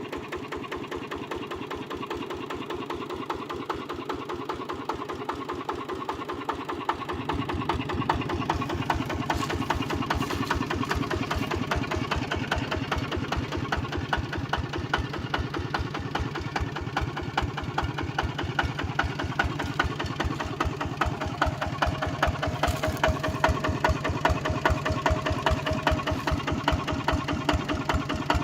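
Kubota ZT155 single-cylinder diesel engine on a walk-behind tractor running with an even, rapid knock. It grows louder and heavier about a quarter of the way through.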